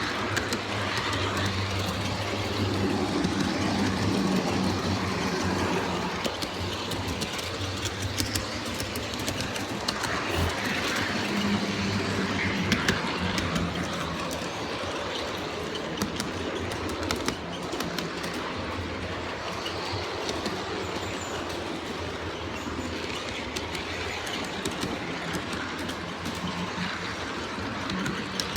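G-scale model diesel locomotives running on track: a steady low hum, with the wheels clicking now and then over the rail joints.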